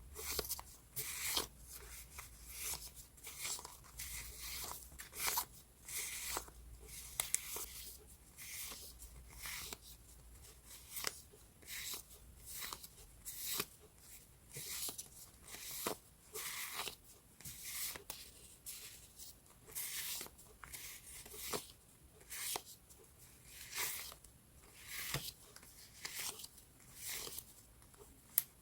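Sheets of scrapbooking paper rustling as they are handled and leafed through, in short crisp swishes about once a second, with a few sharp clicks.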